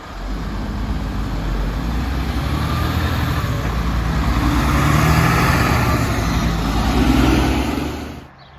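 A heavy truck's diesel engine and tyres going past, the engine note steady while the overall sound grows louder to a peak about seven seconds in, then cuts off abruptly near the end.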